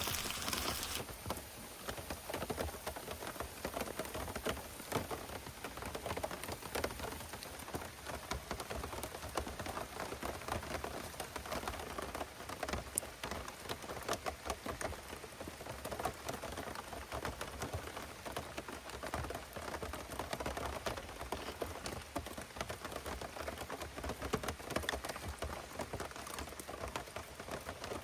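Heavy rain falling, many drops hitting a surface in dense, irregular ticks, with a brighter hiss during the first second.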